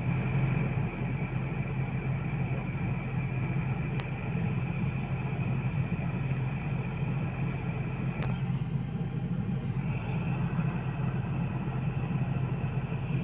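Renault Kangoo heater blower fan motor switched on and run at speed: a steady rush of air with a hum and a high whine, with two faint ticks along the way, then switched off after about thirteen seconds. It is being run to blow out the dust and dirt lodged in it, the dirt that is said to make the blower noisy.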